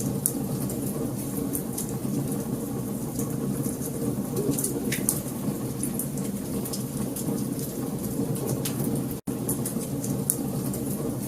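Wood fire burning in a fireplace: a steady low rush of flames with frequent sharp crackles and pops from the burning logs. The sound cuts out for an instant about nine seconds in.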